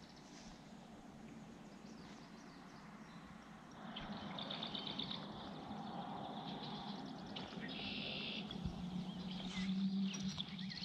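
Birds calling over a marshy shoreline, with two short rapid trills about four and eight seconds in, over faint outdoor hiss.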